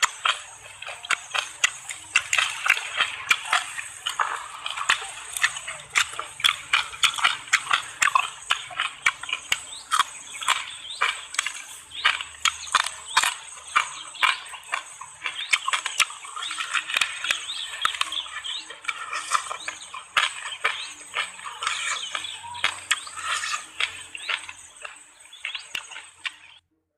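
Crunching and chewing while eating quail: a run of irregular sharp crackles, about two a second, over a steady high-pitched tone.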